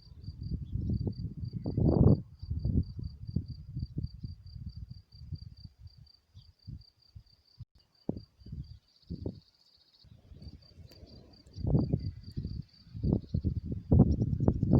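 A cricket chirping in a steady, high-pitched rhythm of about four to five chirps a second. Under it come irregular low rumbles and thumps, loudest about two seconds in and again over the last few seconds.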